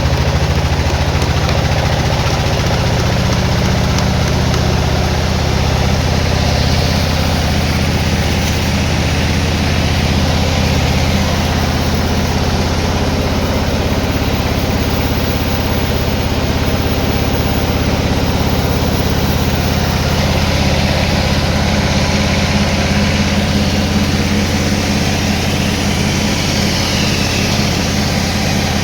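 An engine running steadily at an even speed, a loud low drone that holds without a break.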